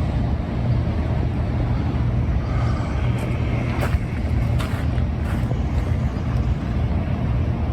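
Steady low engine rumble, with a few light clicks around the middle.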